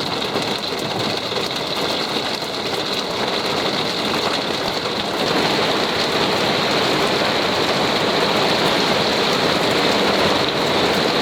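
Heavy storm rain pelting down, a dense steady hiss that grows heavier about five seconds in.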